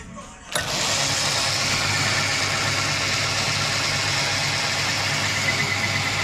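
Metal lathe running: a steady motor hum with an even hiss over it, cutting in abruptly about half a second in.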